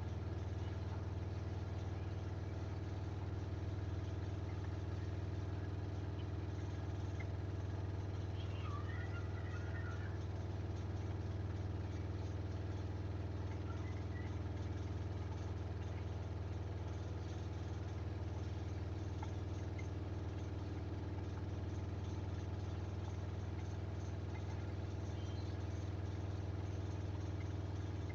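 Samsung washing machine in its high-speed final spin with a load of bedding, the drum running at a steady speed with a constant low hum.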